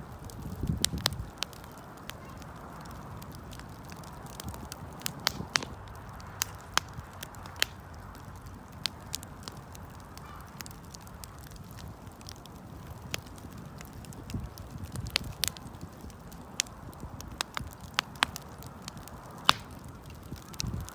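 Campfire crackling, with irregular sharp pops, a few of them loud, over a steady hiss and a low rumble about a second in.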